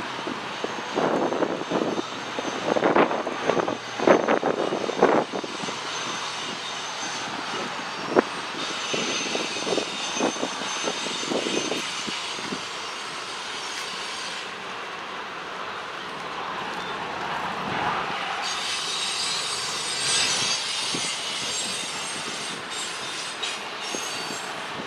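Freight train rolling past on the rails, with high-pitched squealing from the wheels in two long stretches, the second starting about halfway through. Gusting wind buffets the microphone in the first few seconds.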